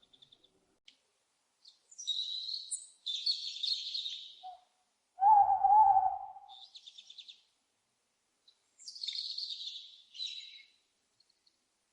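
Owl calls: two groups of high, rasping screeches, with one louder, lower hoot between them.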